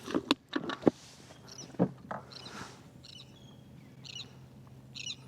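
A bird chirping in short, high calls roughly once a second, after a few sharp clicks and knocks in the first second.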